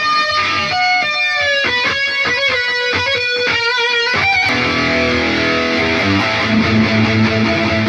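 Electric guitar played through an Atomic AmpliFire modeler pedal and cheap computer speakers: a quick run of single picked notes, then, about halfway through, a held distorted chord.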